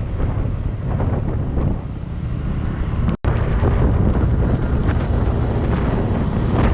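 Heavy wind buffeting on the microphone of a moving Yamaha Aerox 155 scooter, a dense steady rumble. The sound cuts out for an instant about three seconds in.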